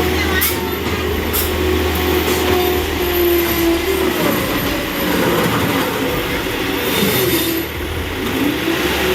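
A heavy vehicle or machine running with a steady low rumble, and wavering higher tones that glide up and down over it.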